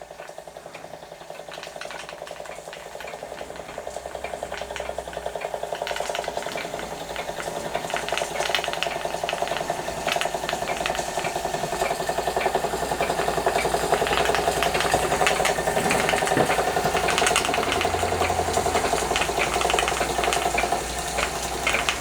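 Wilesco D455 model steam engine running under steam with a fast, even beat of exhaust puffs, growing louder over the first several seconds and then holding steady.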